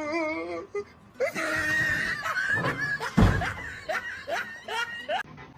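A person's voice shrieking, then a run of short, rapid laughs, with a dull thump in the middle; the sound cuts off abruptly near the end.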